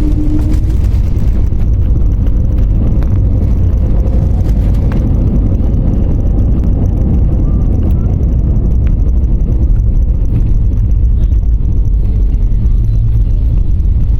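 Airliner cabin noise during the landing rollout: a loud, steady low rumble of the jet engines and wheels on the runway as the plane slows.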